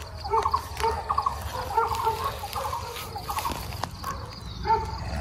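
Birds calling: short notes repeated in quick little clusters, over and over.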